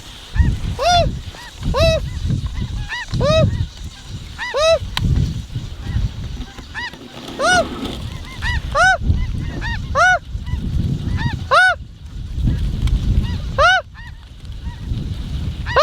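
Snow goose calls: short, high, single-note honks that rise and fall, about a dozen loud ones at uneven intervals of one to two seconds with fainter ones in between, over a low rumble.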